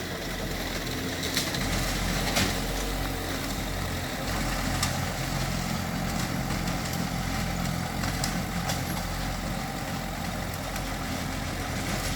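Heavy earthmoving machine's diesel engine running steadily, with a few short sharp knocks over it.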